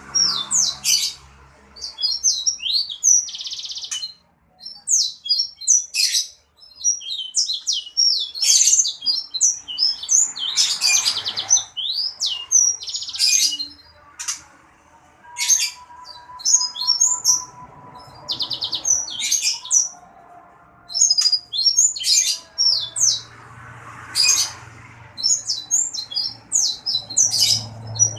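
A small songbird singing vigorously: rapid high chirps, short trills and sweeping notes in bursts separated by brief pauses.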